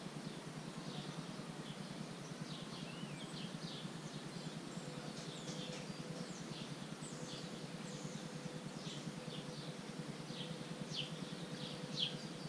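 Outdoor ambience: a steady low rumble with many short, high, downward-sliding bird chirps, coming thicker and louder toward the end.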